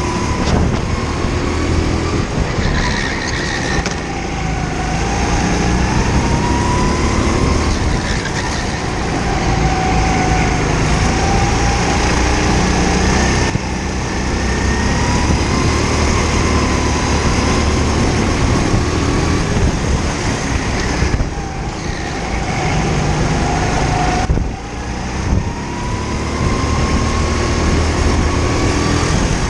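Go-kart engine heard onboard during a lap, its pitch rising under acceleration and dropping sharply off throttle for corners, a few times over.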